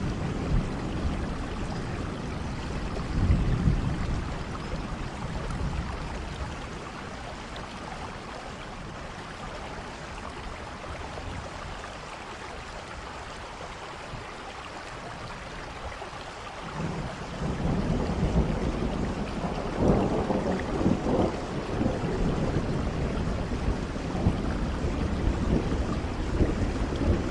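Steady rainfall with low rumbles of thunder, one about three seconds in and a longer, louder stretch from about seventeen seconds on.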